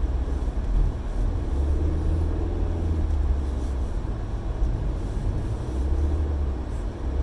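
Steady low rumble of a car's engine and tyres, heard from inside the cabin, as it climbs a hill on snow-covered roads.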